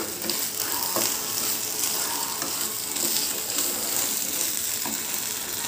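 Onion and egg fry sizzling in a wok, a steady frying hiss, while a wooden spatula stirs it, with a few scrapes and light taps of the spatula against the pan.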